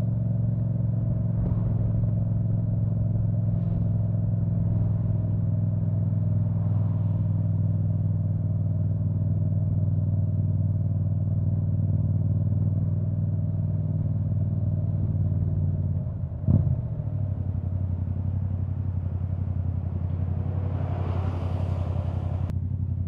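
Yamaha MT-07 parallel-twin engine through an Akrapovic full titanium exhaust with the dB killer out, running at a steady engine speed. About 16 seconds in the note breaks briefly with a short blip, then runs steady again; a hiss swells and fades near the end.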